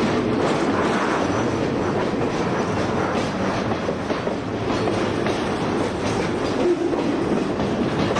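Train rolling past close by: a steady rumble of wheels on rail with light clicking over the rail joints.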